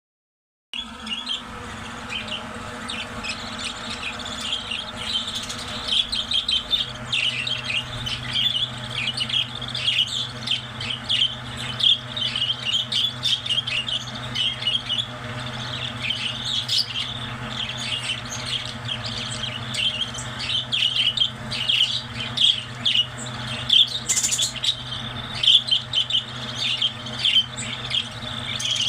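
A flock of small parrots in an aviary chirping and chattering continuously in fast, overlapping calls, over a steady low hum.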